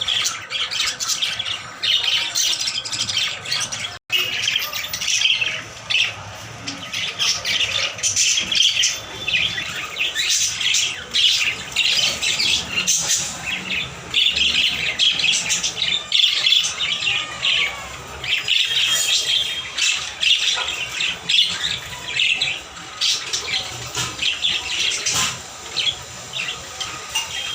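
Parrots chattering and squawking continuously, many calls overlapping, with a momentary break about four seconds in.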